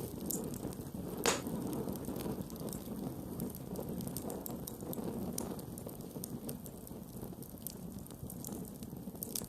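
Campfire burning with a steady low rumble, wood crackling in scattered small pops and one louder pop about a second in.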